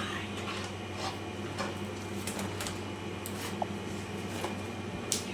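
A steady low hum, with scattered light clicks and taps through it and a sharper click near the end.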